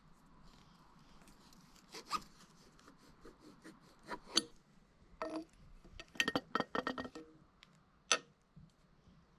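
Hand tools and small metal parts being handled while swapping a motorcycle's clip-on handlebars and grips: scattered clicks and clinks, with a quick run of knocks about six to seven seconds in.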